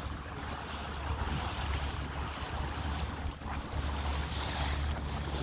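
A small tour boat's engine running steadily, with water rushing past and wind buffeting the microphone.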